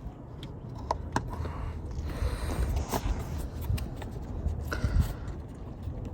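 Hands working a seatbelt retractor and its belt into place among interior trim: scattered clicks and taps with stretches of rustling and scraping.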